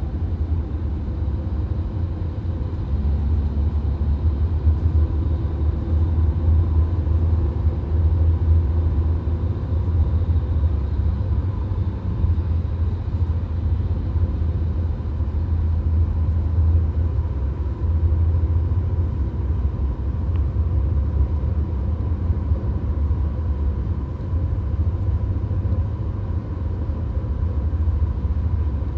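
Inside a VW Golf's cabin at motorway speed: a steady deep rumble of road and engine noise with a hiss of tyres and wind, and a faint steady hum.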